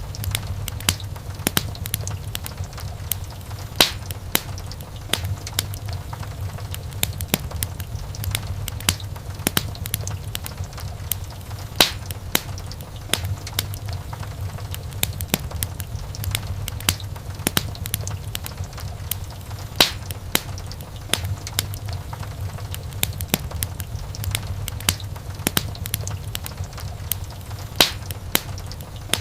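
Wood fire in a fireplace crackling: a steady low rumble of flame with frequent sharp snaps of burning wood, and a louder pop about every eight seconds.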